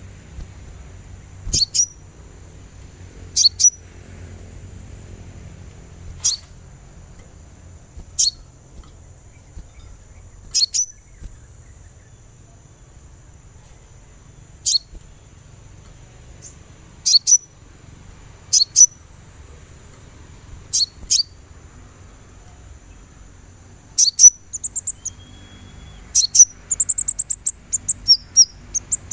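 Sunbird (kolibri ninja) calls: single sharp, high downward-sweeping chirps about every two seconds, breaking into a quicker twittering run near the end. A steady high-pitched tone runs beneath.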